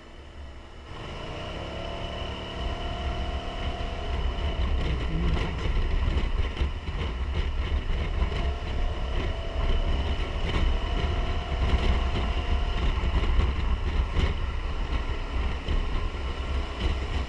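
Wind buffeting the microphone over a steady low rumble, with faint whistling tones rising and falling twice.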